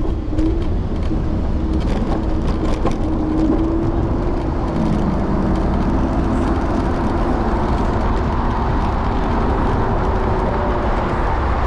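Steady street traffic and road rumble heard from a moving electric scooter, with a low hum underneath.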